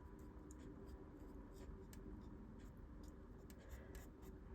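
Faint scratching of a felt-tip colouring marker stroking across cardstock, in short irregular strokes over a low steady room hum.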